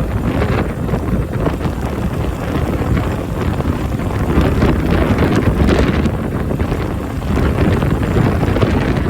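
Strong wind buffeting the microphone in a loud, rough rumble, with a Honda Benly CS90 motorcycle's small single-cylinder engine running beneath it.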